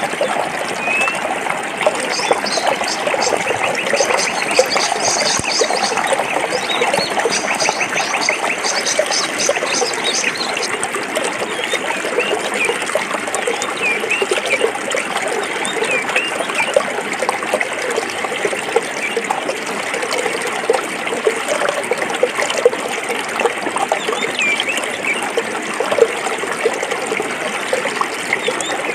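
Stream water trickling and bubbling over rocks, a steady babble of many small splashes. For roughly the first ten seconds a high, rapid trill of an animal call sounds over it.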